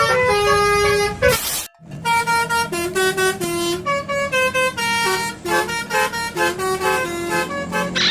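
Basuri telolet bus horn, a multi-tone horn playing a tune of held and quickly changing notes, with a brief break a little under two seconds in.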